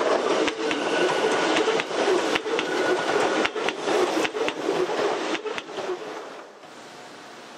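Hakone Tozan Railway electric train of coupled Moha 1 and Moha 2 cars passing close by, its wheels running with a steady rumble and many sharp clacks on the track. The sound dies away about six seconds in as the last car goes by, leaving a faint hiss.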